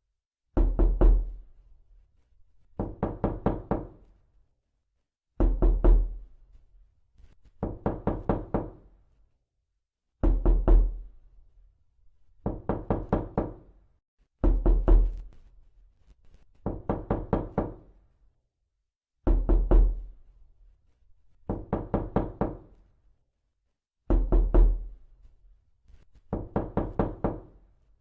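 Knocking in repeated series of several quick knocks, a new series about every two and a half seconds. Series with a heavy, deep thump alternate with lighter ones, and each knock rings briefly as if on a hollow surface.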